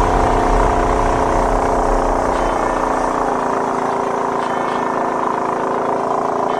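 Engine of a motorized river boat (a Samar torpedo boat) running steadily under way, an even drone; its deepest rumble falls away about three seconds in.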